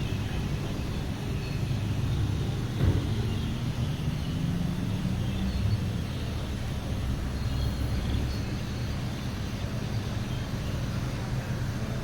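Huebsch washing machine running with a steady low hum and rumble, with a single knock about three seconds in.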